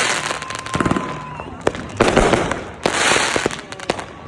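Many fireworks and firecrackers going off, with sharp bangs and louder, longer crackling bursts coming one after another.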